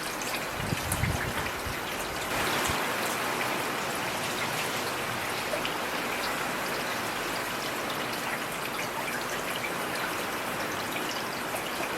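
Heavy rain falling steadily, a dense hiss with individual drops ticking through it, and a brief low rumble about a second in.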